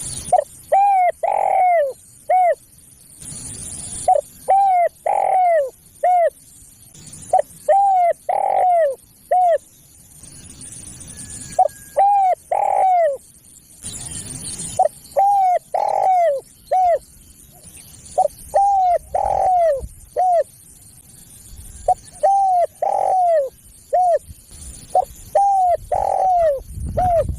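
Spotted dove cooing in repeated phrases of three to five short arched coos, one phrase every three to four seconds. Brief bursts of hiss fall between some of the phrases.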